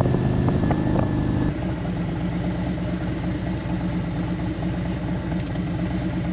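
Harley-Davidson bagger's V-twin engine running on the road. About a second and a half in, the engine note drops to a lower pitch and then holds steady.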